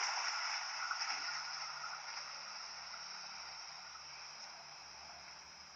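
A passing train's wheel-on-rail noise, a steady rushing sound that fades away gradually as the train moves off.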